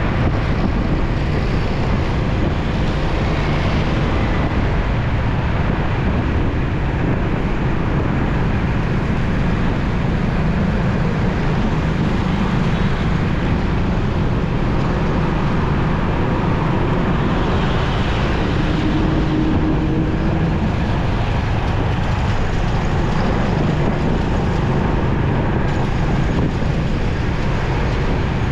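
Motorcycle riding through city traffic: steady wind and road noise with engine and surrounding traffic.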